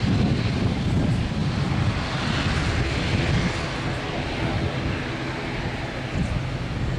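Jet airliner's engines running loud: a steady low rumble with a hiss over it.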